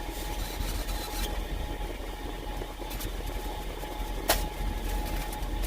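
Semi truck's diesel engine idling, a steady low rumble heard inside the cab, with a single sharp click about four seconds in.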